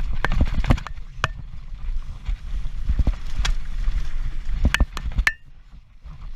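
Mountain bike rattling over rough ground at speed, with irregular sharp knocks and clicks from the frame, chain and tyres striking rock over a steady low rumble of tyre and wind noise. It goes quieter just after five seconds in.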